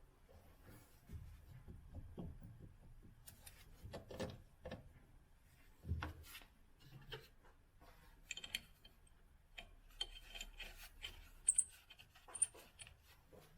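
Scattered light clicks, taps and rubbing from hand tools and parts being handled, with a duller knock about halfway through and a few sharp clicks near the end.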